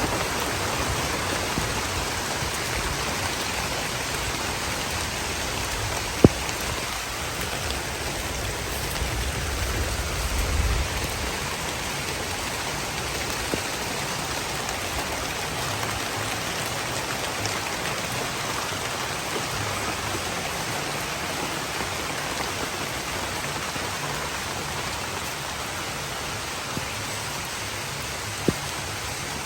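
Steady rain falling, a constant even hiss. A sharp click about six seconds in, a smaller one near the end, and a brief low rumble around ten seconds in.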